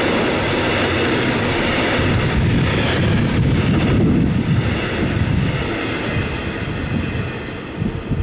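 A passing train's running noise on the track, steady and loud at first, then fading as it moves away, with wind buffeting the microphone near the end.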